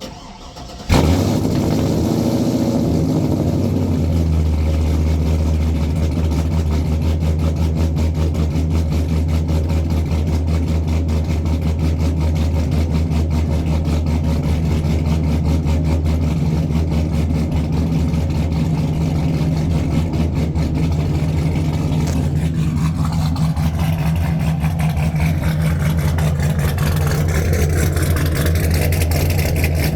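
2006 Chevrolet Silverado started through an equal-length CTS-V X-pipe and Borla ATAK mufflers: the engine catches about a second in, runs at a raised idle for a few seconds, then settles to a loud, steady, deep idle.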